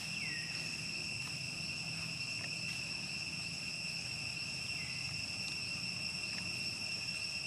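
Insects, crickets or cicadas, keeping up a continuous high-pitched drone at two steady pitches. A couple of short falling squeaks sound over it, one near the start and one about five seconds in.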